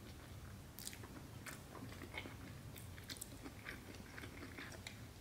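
Faint, close-miked chewing of a mouthful of sushi: soft, irregular wet mouth clicks and smacks.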